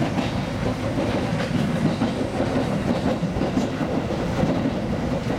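Seibu 2000 series electric train running, heard from inside the front car: a steady rumble of wheels on rail with a few sharp wheel clicks over the track.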